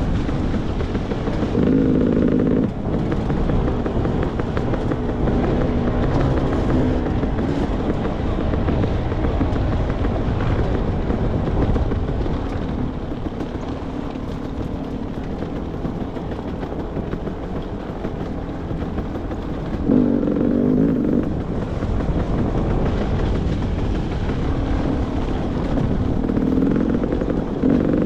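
Beta 300 RR two-stroke dirt bike engine running under way on a trail, over a steady rumble of riding noise. The engine note swells briefly about two seconds in, again around twenty seconds in, and near the end.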